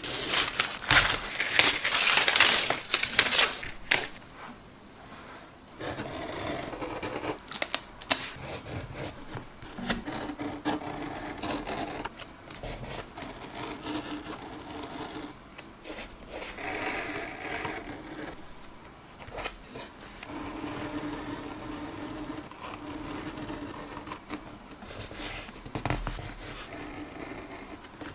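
Close-miked hand-crafting sounds of tape and paper being handled on a journal page: irregular rustling and scraping with small clicks and taps. A dense, hissy rustle is loudest in the first few seconds.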